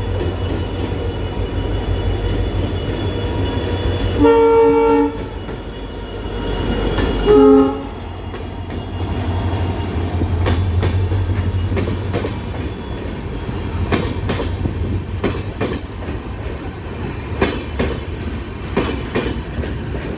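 Indian Railways diesel locomotive hauling a passenger train sounds its multi-tone horn twice, a longer blast and then a short one, over the steady rumble of the train. The locomotive's engine rumble swells as it passes close by, followed by the clickety-clack of the coaches' wheels over the rail joints.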